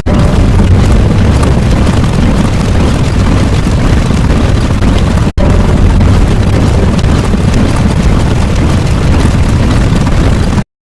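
Loud, steady rumbling sound effect, heavy in the bass, like a huge blast or eruption; it drops out for an instant about five seconds in and cuts off just before the end.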